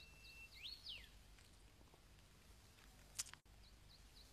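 Faint high bird chirps, a short call repeated about four times a second, with a rising-then-falling whistle about a second in and more chirps near the end. A single sharp click a little after three seconds in is the loudest sound.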